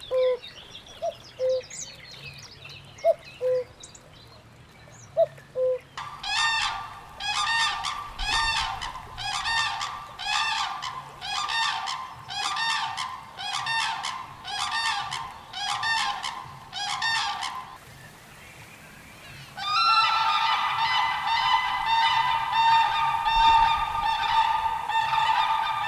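Birds calling at a pond: a few short calls at first, then a loud honking call repeated about once a second for some twelve seconds, and after a short pause a dense, continuous chorus of honking calls.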